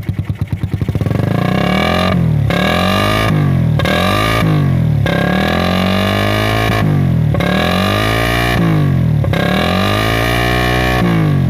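Suzuki Satria FU's 150 cc single-cylinder four-stroke engine blipped through a gutted stock exhaust with its dB killer taken out: loud, ticking over briefly and then revved about six times, the pitch climbing and dropping with each throttle blip.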